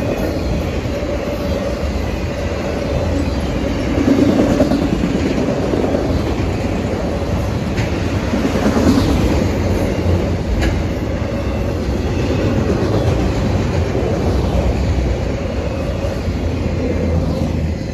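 Autorack freight cars rolling past at speed: a steady rumble of steel wheels on rail with clickety-clack and a few sharp clanks, growing louder about four seconds in.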